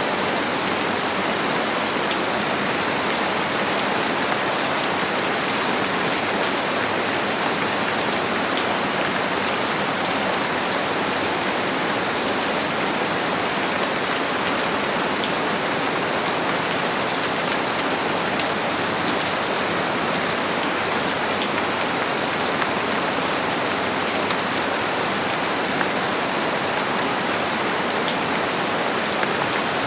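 Steady heavy rain falling, an even hiss with many fine drop patters and no change in intensity.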